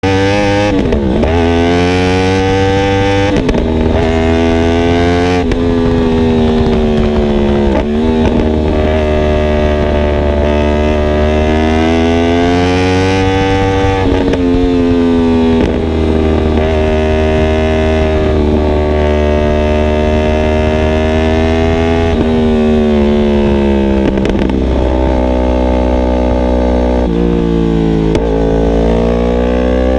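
Yamaha R1M's crossplane inline-four through an Akrapovic exhaust, heard from on board at speed. It pulls up through the gears with a sharp drop in pitch at each quick upshift over the first several seconds, then holds and swells at steadier revs, with a few more shifts near the end.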